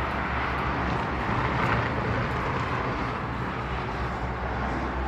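Strong wind of a dust storm blowing steadily, a continuous rushing noise with a low rumble underneath.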